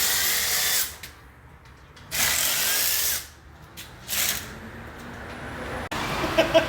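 Handheld power tool run in three short bursts, the first two about a second long and the last shorter.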